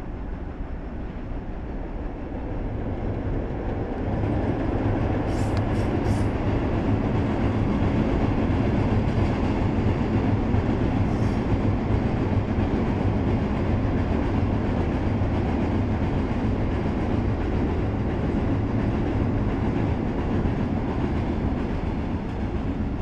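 Freight train of red hopper wagons loaded with limestone rolling past, a steady rumble of wheels on rail that grows louder about four seconds in. A few brief high squeaks come from the wheels.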